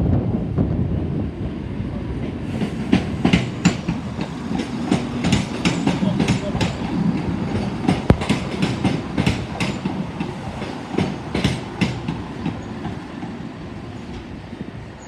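CrossCountry Class 170 Turbostar diesel multiple unit rolling into the station with a low rumble. Its wheels clack over rail joints and pointwork in a long run of sharp clicks, and the train fades away near the end.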